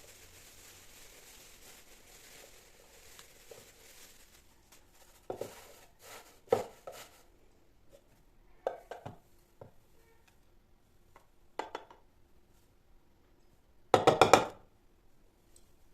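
Kitchenware being handled: scattered knocks and clinks, then a quick run of several loud strikes about fourteen seconds in.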